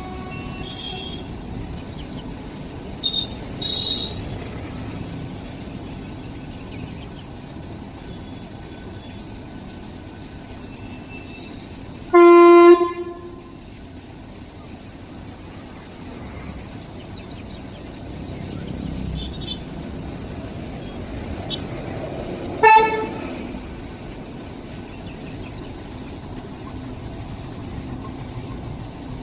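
A horn sounding twice over a steady background rumble: a loud blast of about half a second about twelve seconds in, then a short toot some ten seconds later.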